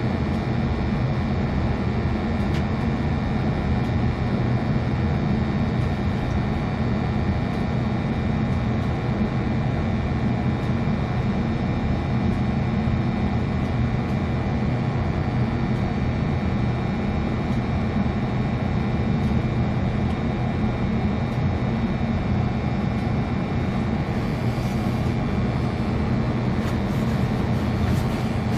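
Gas water heater burner running steadily after lighting, a continuous low rumble with a few faint steady high tones over it.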